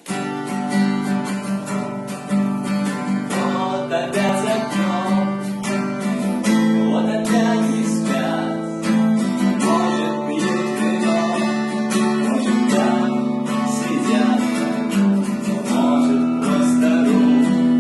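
Acoustic guitar strummed, playing chords.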